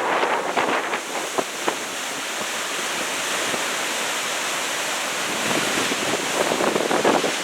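Wind-driven ocean surf washing and breaking, with strong wind buffeting the microphone. The sea is rough and choppy from the wind ahead of an approaching typhoon.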